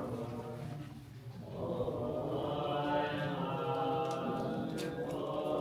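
Buddhist monks chanting prayers together, several voices on long held notes. The chant drops away briefly about a second in, then swells back.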